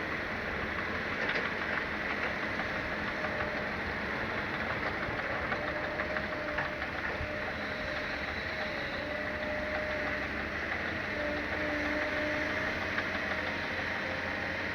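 Diesel engine of a Caterpillar excavator running steadily while digging and loading, with a faint wavering whine over the engine and a few small clicks.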